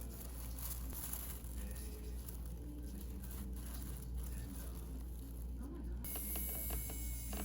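Faint patter, light clicks and rustling from hands working on the nails, over a steady low hum. About six seconds in, a high hiss with a few faint steady tones joins in.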